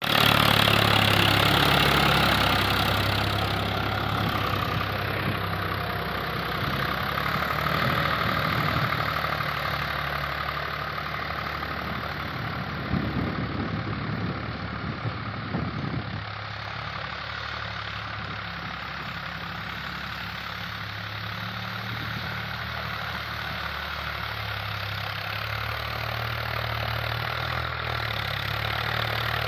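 Swaraj 744 FE tractor's three-cylinder diesel engine running steadily at low revs, loudest at the start and easing off over the first few seconds. A few seconds of louder, irregular clatter come about halfway through.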